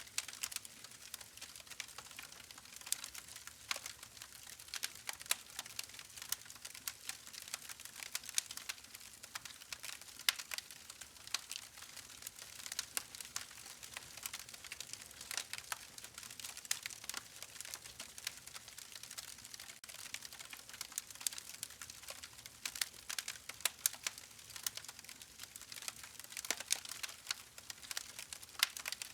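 Campfire crackling: a dense, irregular stream of sharp pops and snaps from burning wood over a soft hiss.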